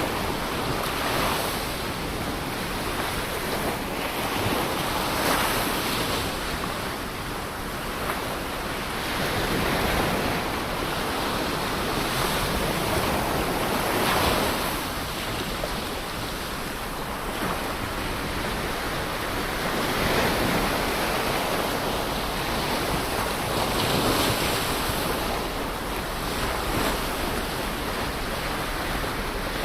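Ocean waves washing onto a shore: a continuous surf hiss that swells and eases every four to six seconds as each wave breaks and draws back.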